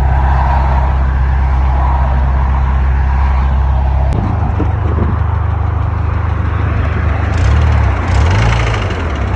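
Audi TT Mk1's engine running, badly damaged after overheating and losing oil pressure. Its note changes about four seconds in, and the revs rise and fall briefly near the end.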